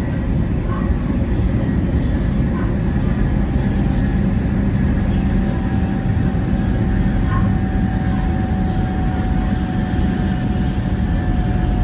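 700 series Shinkansen bullet train running at speed: a steady, dense rumble of wheels on rail and running noise, with a faint steady whine joining about halfway through.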